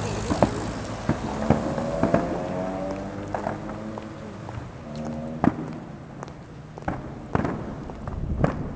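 Fireworks bursting overhead: sharp bangs and cracks at irregular intervals, about nine in all, with a held, wavering pitched tone between them in the middle.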